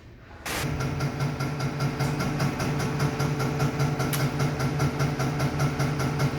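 Motor-driven machine, most likely the diesel injection test bench driving the Mercedes Actros unit pump, switching on about half a second in. It then runs steadily with a low hum and a fast, even ticking.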